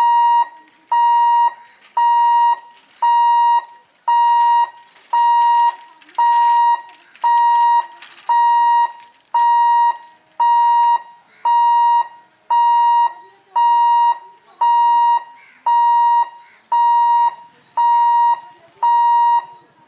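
Level crossing warning alarm beeping, one steady tone repeated about once a second.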